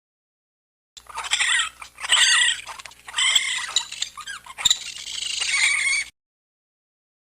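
A small animal's high-pitched squeaky calls, several in quick succession with wavering pitch and one sharp click among them, starting about a second in and stopping suddenly about a second before the end.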